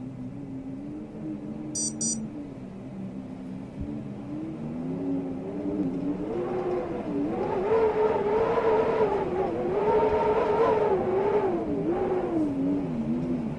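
Storm wind howling, a wavering moaning tone that climbs in pitch and grows louder about six seconds in, then sinks back near the end.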